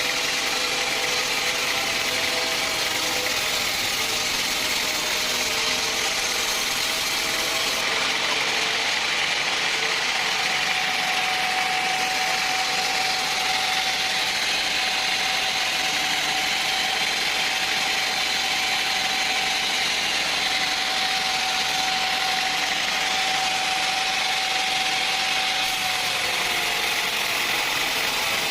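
Sawmill machinery running steadily, with a steady whine that sets in about a third of the way through and drops away near the end.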